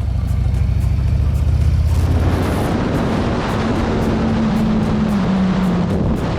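Motorcycle engine running with a low rumble. About two seconds in it pulls away, and rushing wind and road noise swell over a steady engine note that drops slightly near the end.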